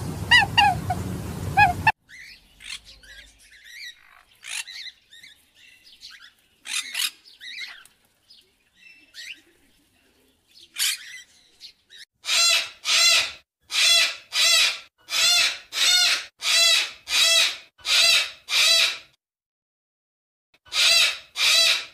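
Parrot calls: short scattered chirps, then a run of about ten loud, harsh calls evenly spaced a little over half a second apart, and two more near the end.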